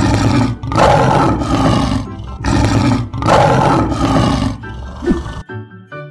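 Lion roar sound effect: two long roars, the second fading out about five seconds in, over background music.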